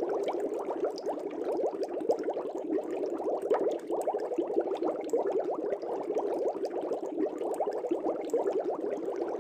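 Air bubbling steadily through aquarium water, a dense stream of small gurgles and bubble pops.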